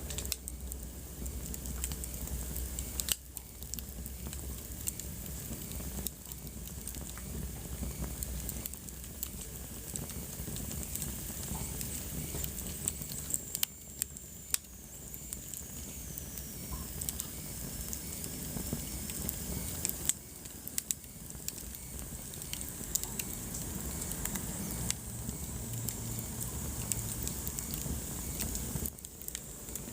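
Wood fire burning in a fireplace: a steady low rush of flames with frequent sharp crackles and pops, and a faint high whistle that slides down in pitch about halfway through.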